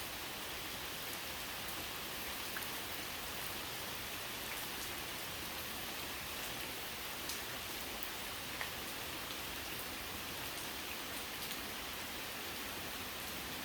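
Steady rain falling: an even hiss, with a few single drops ticking louder here and there.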